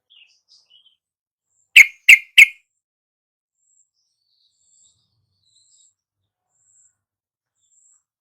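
Yellow-vented bulbul calling: three short, very loud, sharp chirps in quick succession about two seconds in. After them come faint, thin, high notes repeating about once a second.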